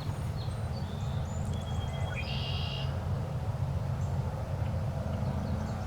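Small songbirds chirping, with a short buzzy trill about two seconds in, over a steady low rumble.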